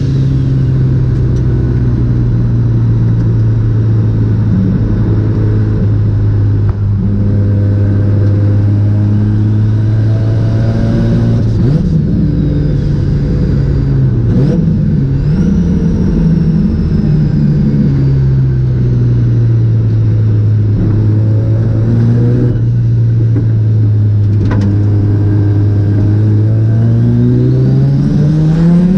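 Mazda RX-7's rotary engine running hard. Its note holds fairly steady, wavers and dips briefly about halfway, sags slowly, then rises sharply near the end.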